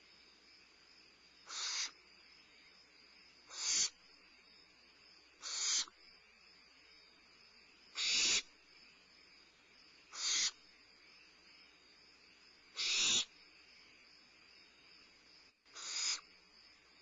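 Barn owlets giving their hissing, breathy screech seven times, about every two to three seconds: the nestlings' food-begging call. A steady high chirring of crickets runs underneath.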